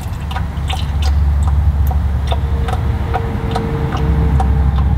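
Tractor hydraulic fluid draining into a drain pan, with regular ticking drips about two to three a second over a loud, steady low rumble.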